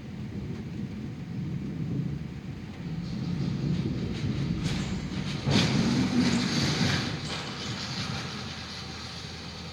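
Thunder: a low rumble that builds, then a sudden sharp clap about five and a half seconds in that rolls on and fades over the next two seconds.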